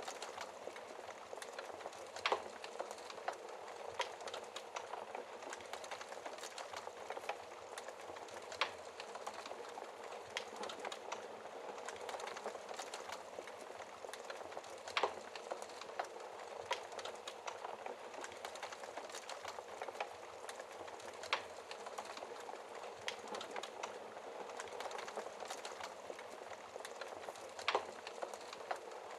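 Wood fire in a fireplace crackling steadily, with a dense run of small crackles and a few louder, sharper pops from the burning logs.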